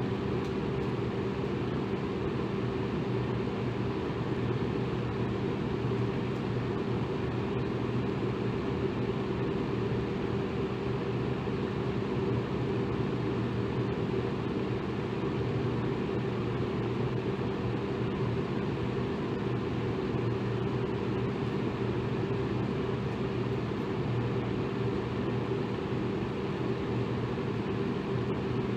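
Electric fan running steadily: an even whoosh of moving air with a low motor hum under it.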